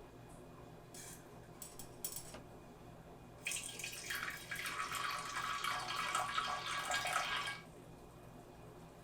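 Kitchen tap running into a sink for about four seconds, starting and stopping abruptly, after a few light clicks and knocks.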